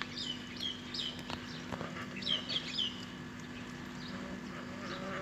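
Small birds chirping: short, high, falling notes in two quick runs, the second about two seconds in, over a low steady hum.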